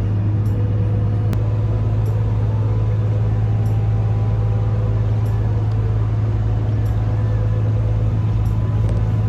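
A cruise boat's engine running with a steady, unchanging low drone.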